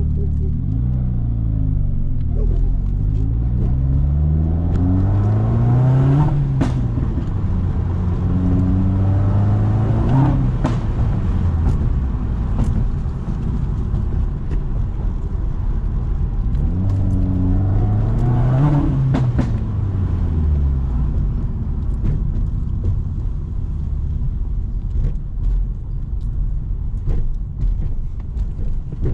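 Subaru WRX turbocharged flat-four running through a straight exhaust with the muffler and resonator deleted, pulling up through the revs twice, with a gear change partway through the first pull, and the revs falling away after each. Short sharp pops come near the top of each pull as the throttle lifts. From about two-thirds in it settles to a low steady drone.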